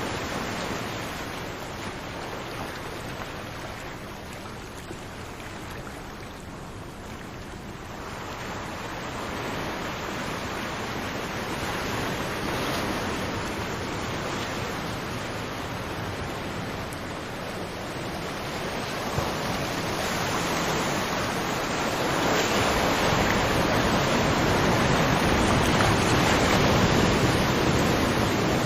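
Ocean surf on a tropical beach: waves breaking and washing up the shore in a steady hiss that ebbs a few seconds in and swells again, loudest near the end.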